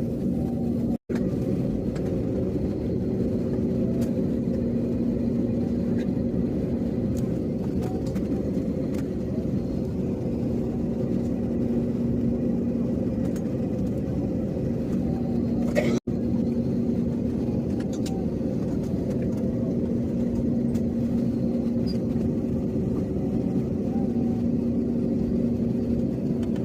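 Cabin noise of an Airbus A321neo taxiing: a steady rumble with a steady low engine hum. It cuts out abruptly for an instant twice, about a second in and again about sixteen seconds in.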